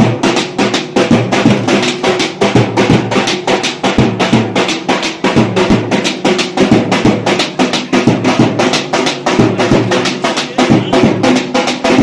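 Loud drumming with a fast, steady beat: music led by drums.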